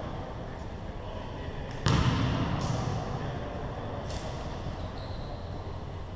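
A basketball hits hard once, a loud echoing bang about two seconds in, followed by a few fainter knocks over the steady noise of play in a gymnasium. A short high squeak comes near the end.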